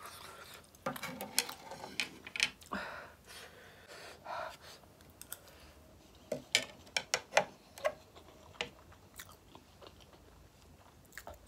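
Close-up eating sounds: chewing and biting with crisp crunching, a run of sharp crunchy bites coming close together a little past halfway.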